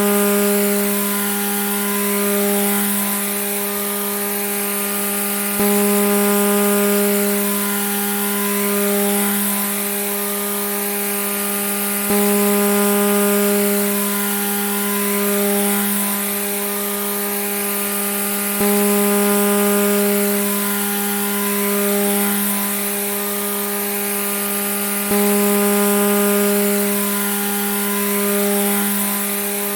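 Grass trimmer (weed eater) running steadily at high speed, a continuous buzzing tone. A short recording is looped, with a small jump in level about every six and a half seconds.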